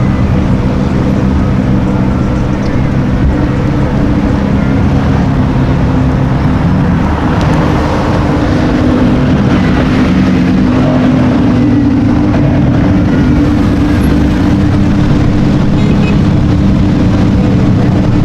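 Car engine running steadily at low revs, a constant low drone whose pitch shifts about seven seconds in.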